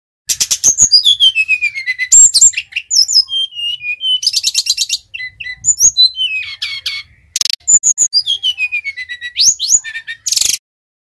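Sikatan rimba dada coklat (brown-chested jungle flycatcher) singing: rapid high trills mixed with whistled notes that slide steeply down in pitch, in repeated phrases.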